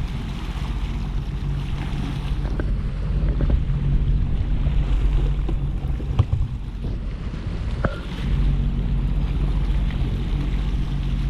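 Jet ski engine running at a low, steady idle, with wind on the microphone and the wash of the sea. The engine's hum eases for a few seconds and comes back up about eight seconds in, with a couple of small knocks in between.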